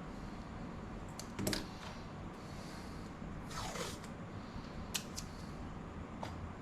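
Hands handling laptop parts during disassembly: a few sharp plastic-and-metal clicks and knocks, the loudest about one and a half seconds in, and a short scraping slide just past the middle.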